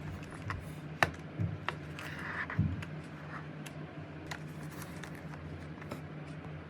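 Scattered light plastic clicks and taps from handling, with a sharper click about a second in and a couple of dull thumps, over a steady low hum.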